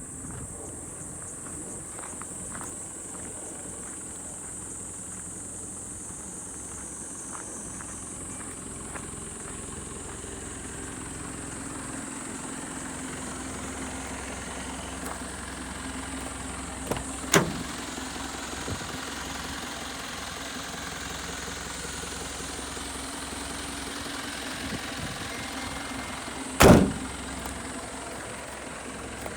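Nissan Civilian minibus's diesel engine idling steadily. Two sharp loud knocks come through it, one a little past halfway and a louder one near the end.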